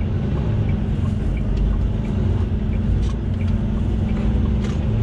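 Semi truck's diesel engine running with road noise, heard from inside the cab as a steady low drone with a constant hum. Two brief clicks come about three and four and a half seconds in.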